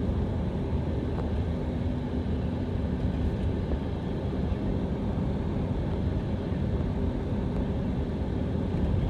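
Steady rumble of a car driving along a road: engine and tyre noise.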